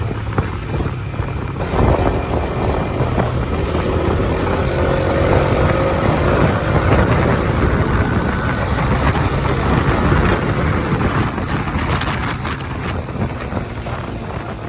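Motorcycle on the move: steady engine, road and wind noise, with a faint rising engine tone a few seconds in.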